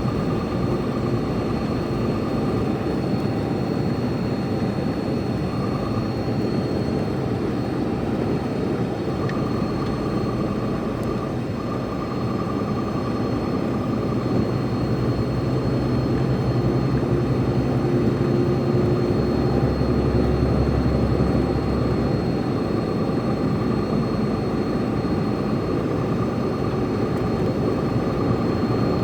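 A truck's engine and road noise heard from inside the cab, running steadily downhill, with a deeper rumble that swells for a few seconds past the middle.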